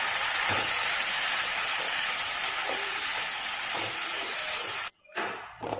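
Fresh mint leaves frying in hot coconut oil in a metal kadai: a steady sizzle, with a spatula stirring and turning the leaves. The sizzle cuts off suddenly near the end.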